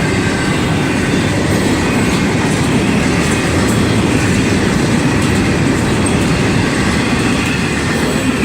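Empty freight cars of a long freight train rolling past, a steady unbroken rumble of wheels on the rails.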